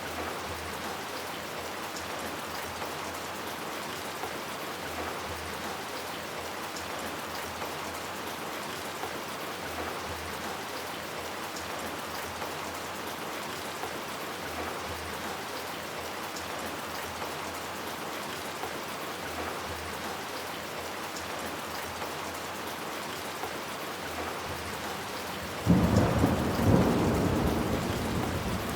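Steady rain falling on hard city surfaces. Near the end a loud clap of thunder breaks in suddenly and rumbles on.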